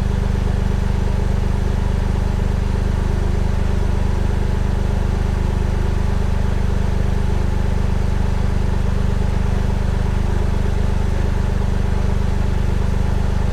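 Toyota GR Yaris three-cylinder engine idling steadily through its GR Sport muffler: an even, low exhaust drone at a constant pitch with no revving.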